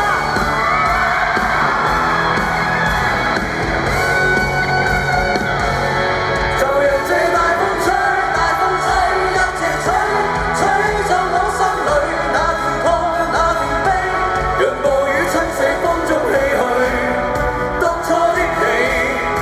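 Live pop-rock music: a band playing at a steady, full level with a sung vocal line, and yells and whoops over it.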